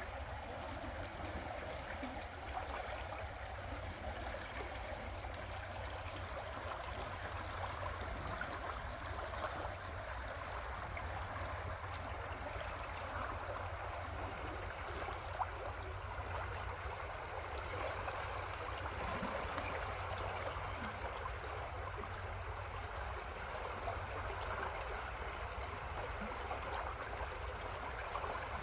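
River water flowing steadily in a continuous, even rush, with a steady low rumble underneath.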